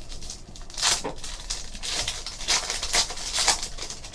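Basketball trading cards being slid and flipped through by hand, a run of paper rustles and scrapes.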